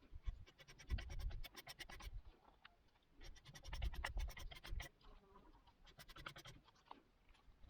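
Old wooden frame being scraped by hand to clean it up, in three bursts of quick, rapid strokes with short pauses between them.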